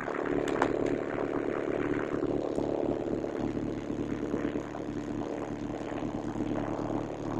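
1984 VW Jetta's 1.6-litre turbodiesel four-cylinder idling steadily with diesel clatter, shortly after a cold start.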